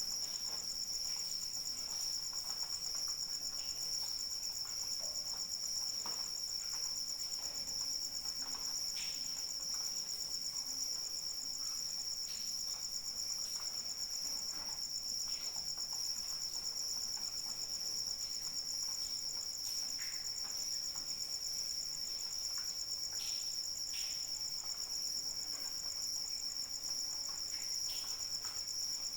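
A chorus of crickets trilling steadily in a continuous, high-pitched ring, with light rain pattering faintly underneath in scattered soft drips.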